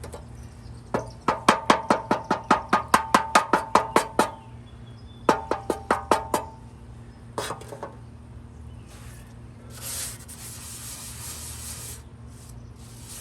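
An aerosol can of foaming cleaner is shaken in three bursts, rattling with rapid ringing metallic clacks, about six a second. From about ten seconds in it sprays with a steady hiss.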